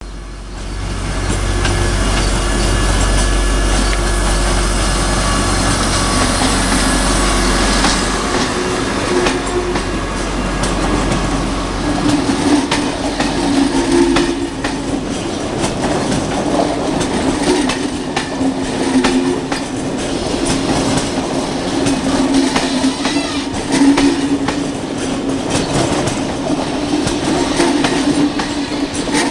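An SNCF shunting locomotive and passenger coaches moving slowly on the rails. For the first several seconds a low engine hum dominates. After that comes wheel squeal that wavers in pitch, with scattered clicks over the rails.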